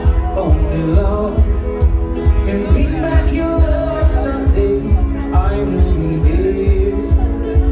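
Live band playing a bluegrass-style cover of a rock ballad, with a steady drum beat about twice a second under sustained instrument chords and a singing voice.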